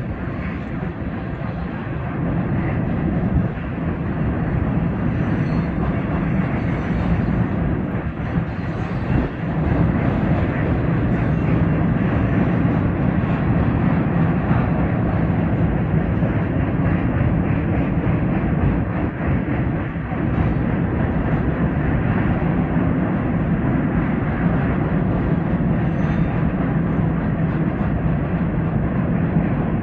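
Norfolk Southern double-stack container freight train rolling across a steel river bridge, a steady low rolling noise of wheels on rail. It builds over the first ten seconds or so and then holds.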